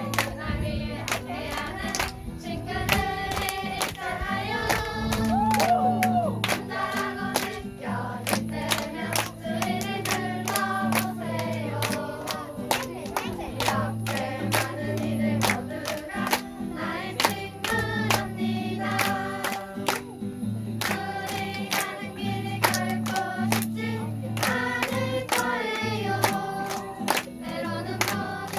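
A group of voices singing a song together over a steady low accompaniment, with a regular beat of sharp claps.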